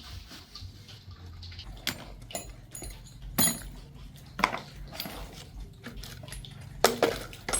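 Scattered clicks and knocks, with sharper ones about 3.5, 4.5 and 7 seconds in, over a faint low hum.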